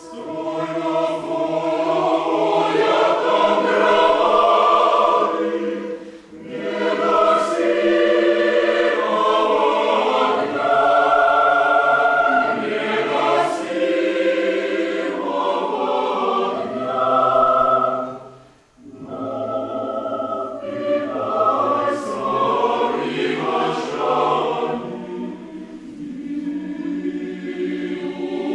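Mixed choir singing unaccompanied, in several voice parts from low basses to high sopranos. The phrases pause briefly about six seconds in and again near two-thirds of the way through.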